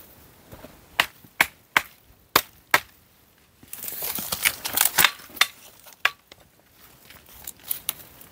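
Dry wood being chopped with a blade: five sharp strikes in quick succession about a second in, then a stretch of rustling and snapping with more strikes scattered through the rest.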